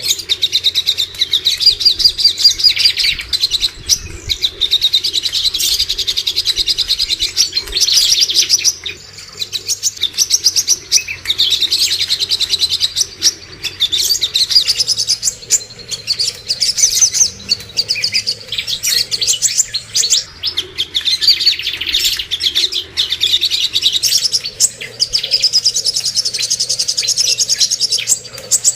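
Cucak kombo songbird singing continuously: fast trains of high, chattering chirps in phrases of a few seconds each, with brief breaks between phrases. A faint steady low hum lies underneath.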